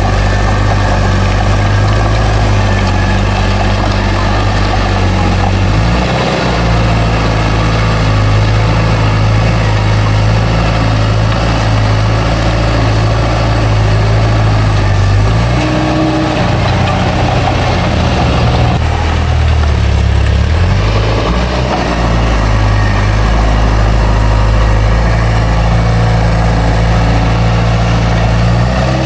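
Heavy earthmoving machine's diesel engine running, its pitch shifting as it works: a change about six seconds in and another stretch of lower then rising pitch between roughly fifteen and twenty-two seconds.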